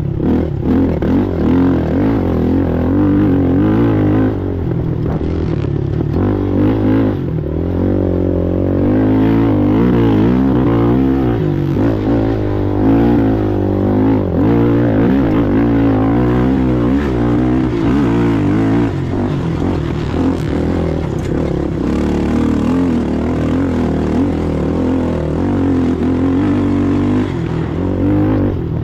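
Racing ATV engine running hard, its pitch rising and falling continuously as the throttle is worked, over a steady rush of noise.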